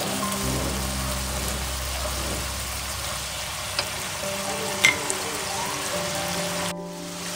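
Beef in spicy soy sauce frying and sizzling in a wok, the dark sauce bubbling, with two sharp clicks of the spatula against the wok about four and five seconds in. Background music plays underneath.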